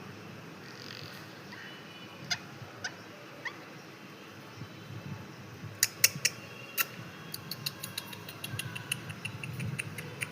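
Parrot making sharp clicks and short high chirps rather than talking. The clicks are sparse at first and come in a quicker run in the second half.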